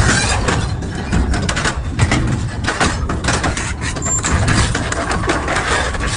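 Double-shaft metal shredder grinding through scrap: a heavy low rumble with dense, irregular cracks and crunches of tearing metal.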